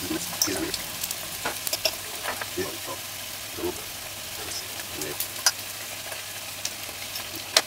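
Saltfish fritters frying in hot oil in an aluminium pot: a steady sizzle, broken by scattered clinks and scrapes of a metal spoon turning them against the pot, with one sharp clink near the end.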